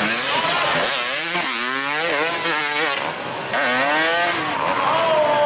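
Trail motorcycle engine revving hard as it climbs, its pitch wavering rapidly up and down under quick throttle changes, then rising and falling in longer sweeps near the middle.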